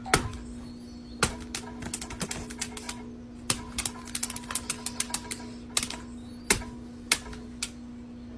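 Irregular sharp clicks and taps over a steady low hum. The loudest click comes right at the start, and there is a quick run of clicks around the middle.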